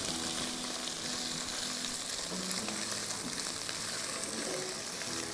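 Pieces of boiled chicken breast sizzling steadily in butter and garlic in a nonstick frying pan, stirred and turned with a spatula.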